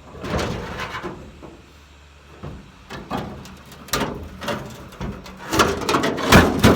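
A cut-off piece of a pickup truck's sheet-metal bed being handled and moved: irregular scrapes and clanks, loudest near the end.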